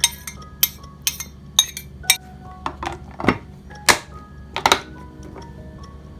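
A series of sharp kitchen clinks and knocks, about two a second, from utensils and dishes being handled. They stop a little under five seconds in, over soft background music.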